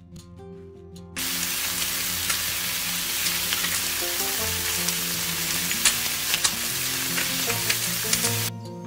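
Batter-coated pumpkin flowers sizzling as they fry in oil in a wok, with scattered ticks of a spatula against the pan. The sizzle starts suddenly about a second in and stops near the end, with background music underneath.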